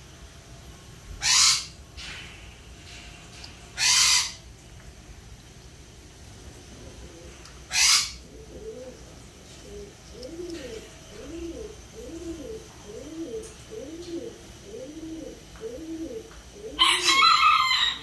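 Birds calling: three short harsh calls a few seconds apart, then a low rising-and-falling call repeated over and over, and a loud longer call near the end.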